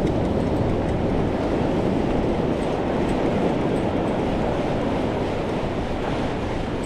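Steady rush of ocean surf with wind noise on the microphone.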